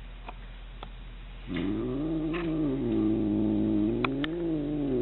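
A cat's long, low, wavering yowl, starting about a second and a half in and still going at the end: the drawn-out threat yowl of a cat squaring up to a fight.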